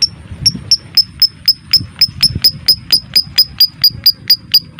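Lovebird giving a long, even run of sharp high chirps, about four a second, in the rapid repeated 'ngekek' style of a lovebird in full song.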